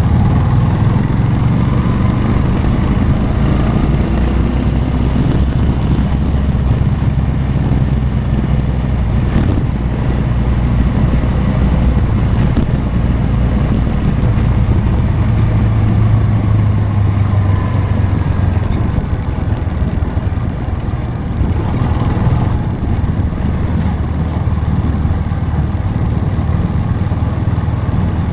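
Motorcycle engine running steadily while riding, a continuous low drone that rises and falls a little in pitch with the throttle.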